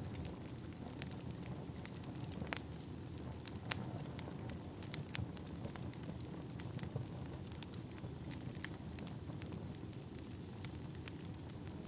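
Firewood burning: a steady low rumble of the fire with scattered sharp crackles and pops from the logs.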